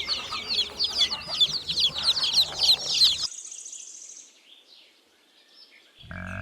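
A group of domestic chicks peeping: a dense, continuous stream of rapid high-pitched peeps that stops abruptly about three seconds in.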